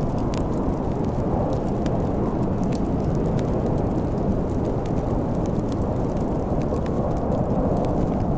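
Steady low rumble of storm wind with a scattering of small, sharp crackles from a wood fire.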